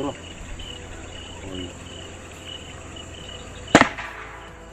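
A single sharp gunshot from a hunter's gun about three-quarters of the way through, fired at a bird at night, over a steady background of crickets and insects chirping in quick repeated pulses.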